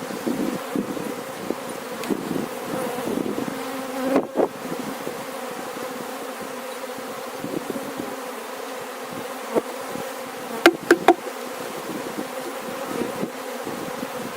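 Honey bees buzzing around an opened hive, a steady hum. A sharp knock comes about four seconds in, and three quick, louder knocks come about eleven seconds in.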